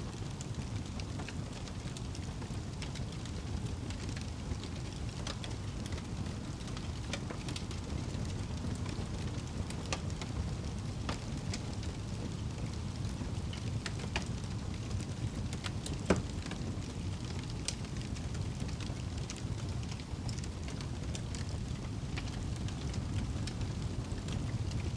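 Wood fire burning in a fireplace: a steady low rumble of flame with scattered small crackles and one loud sharp pop about two-thirds of the way through.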